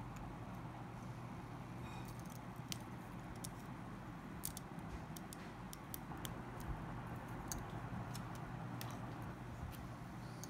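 Small, irregular clicks and taps of tools and small parts being handled during a phone teardown, over a steady low background hum.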